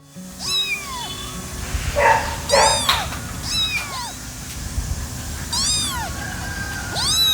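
Kittens meowing: a series of about five high meows, each rising and then falling in pitch, a second or so apart.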